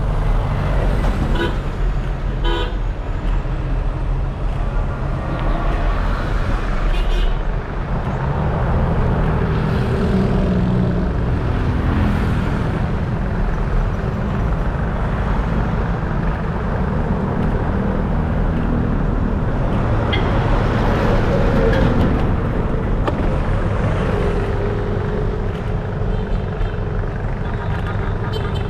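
Road traffic passing on a busy road, with vehicle horns tooting at times and a heavy low rumble of wind on the microphone while riding.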